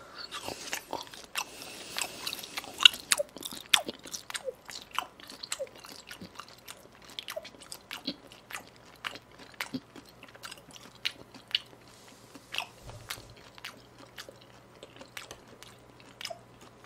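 A person chewing raw beef sashimi close to the microphone: many wet mouth clicks and smacks in quick, uneven succession.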